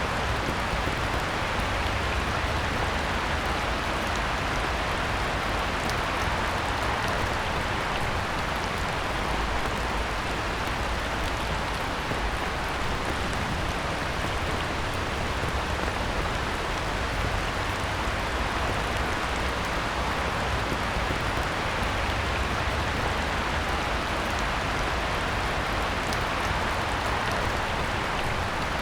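Heavy rain falling steadily on a pond, an even hiss of drops on the water's surface that stays level throughout.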